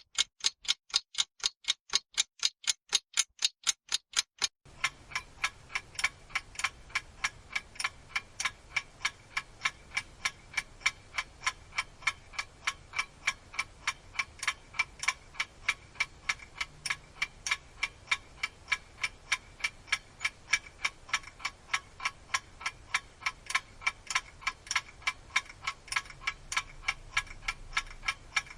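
Mechanical clocks ticking: first a quick, crisp tick of about four to five ticks a second on a silent background. About four seconds in it changes to a second clock, ticking more slowly, about three ticks a second, over a faint hiss.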